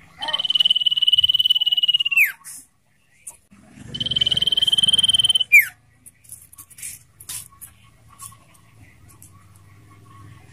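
Common iora giving two long, level, rapid trills of about two seconds each, a few seconds apart, each ending in a quick downward slide, followed by faint short chirps.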